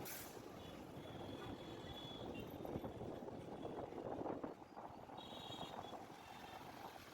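Road traffic: a steady rumble of passing vehicles, swelling about four seconds in, with a few short high tones.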